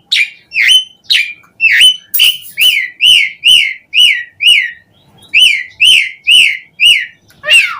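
Javan pied starling (jalak suren) singing: a string of loud, short whistled notes, each sliding down in pitch, about two a second, with a brief pause about five seconds in.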